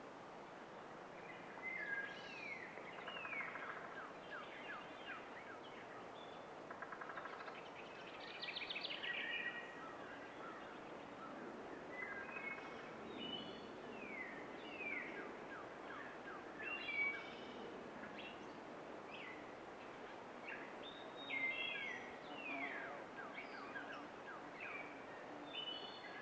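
Songbirds singing: repeated quick downward-sliding whistled notes and short rapid trills from more than one bird, over a steady background rush.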